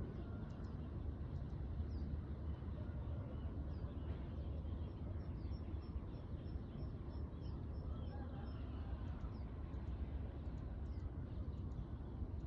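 Birds chirping and calling, with many short high chirps and, around the middle, one bird repeating a quick high note about three to four times a second. A steady low rumble runs underneath.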